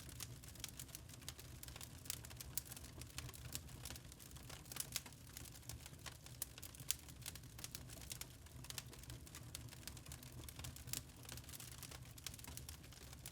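Wood fire crackling in a fireplace: many small irregular pops and snaps over a low, steady rumble of the flames.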